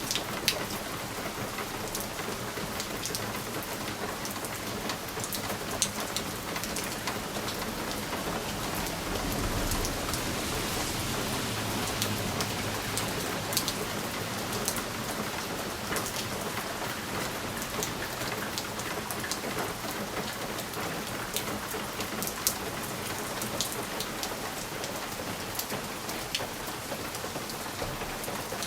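Steady rain falling on a window pane, with scattered sharper drop ticks. A low rumble swells and fades about ten seconds in.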